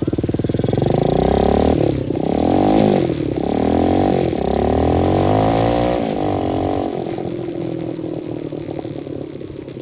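125cc dirt bike engine under way, its revs rising and falling several times as the throttle and gears change, then running steadier and a little quieter near the end.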